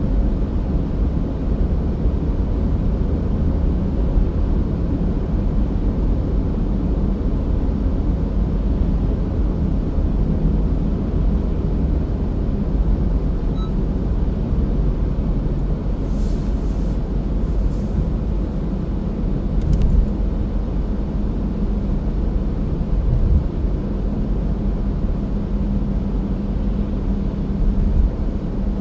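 Car driving at a steady speed: a continuous low rumble of engine and road noise, with a few brief hissy sounds partway through.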